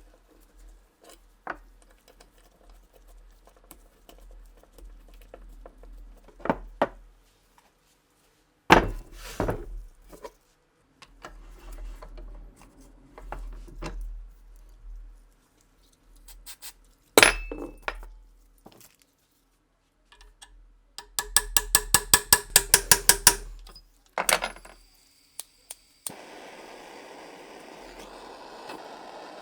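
Small metal parts of a Nagant revolver being handled on the workbench: scattered clinks and knocks, then a quick run of about twenty metallic clicks. A steady hiss starts near the end.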